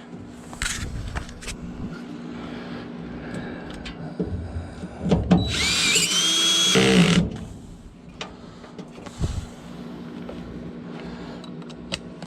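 Cordless drill/driver running a screw, its motor whine rising in pitch for about a second and a half midway, among scattered clicks and knocks of metal parts being handled.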